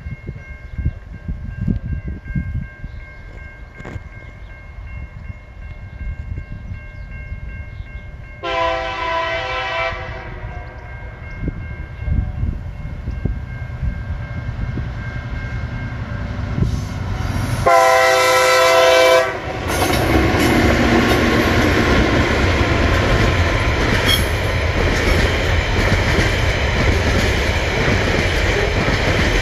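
TasRail TR-class diesel locomotives hauling a container train. A level-crossing bell rings steadily while wind buffets the microphone, then the locomotive horn sounds twice: a blast about nine seconds in and a louder one around eighteen seconds. The train then passes close by, its engines running and its wagon wheels clattering over the rail joints.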